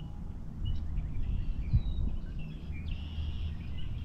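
Wild birds chirping and whistling in short calls, one longer call about three seconds in, over a steady low rumble.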